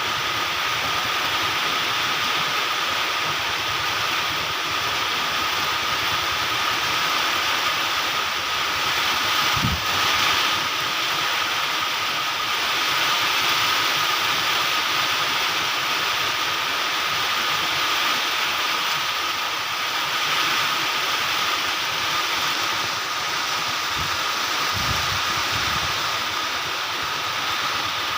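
Rain falling steadily in strong wind, a dense even hiss. A faint steady high tone runs underneath, and brief low gusts buffet the microphone about ten seconds in and again near the end.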